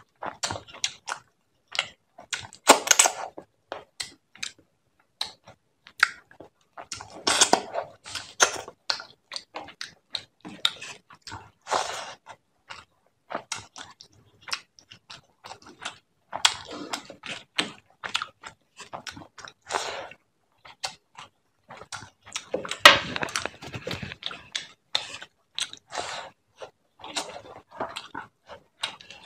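Close-miked eating sounds of rice and fish head curry eaten by hand: chewing and wet mouth clicks in uneven runs, with louder spells every few seconds.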